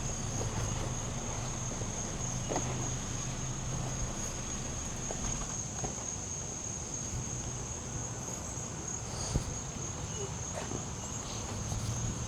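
Insects droning, a steady high-pitched trill that does not break, with a single light knock about nine seconds in.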